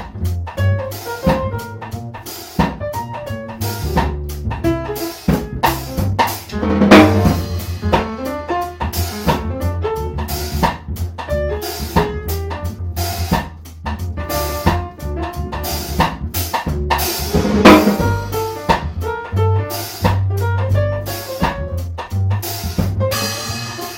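Instrumental jazz trio music: a drum kit playing a busy, driving beat with snare and bass drum, over a bass line and piano chords, with two heavy accents about seven and eighteen seconds in.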